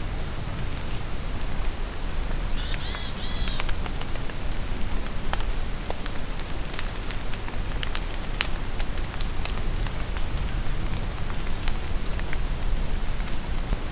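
Steady rain falling in a forest, with individual drops pattering and tapping throughout. About three seconds in a bird calls once with a quick run of high notes, and faint short high chirps sound here and there.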